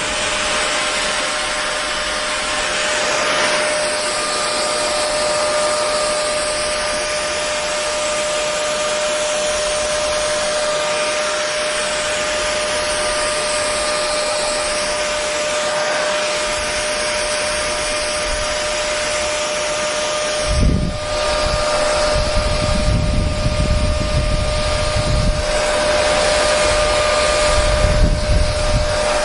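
Electric hair dryer running steadily: an even rush of air with a constant motor whine. About twenty seconds in, an uneven low rumble joins it.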